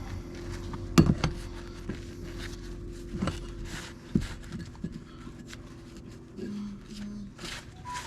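A few sharp metallic clicks and clinks as small differential parts are handled and set down, over a steady low drone of a machine's engine being ridden hard in the distance, which fades out about halfway through.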